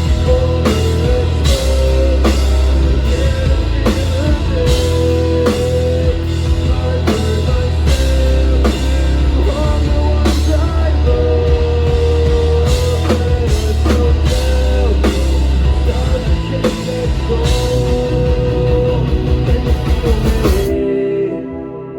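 Live rock band playing at full volume: drum kit, guitars and bass together, with a steady drum beat. The song stops abruptly near the end.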